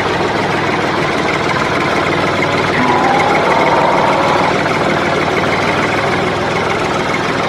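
A small motor running steadily with an even hum. A higher tone comes up briefly from about three to four and a half seconds in.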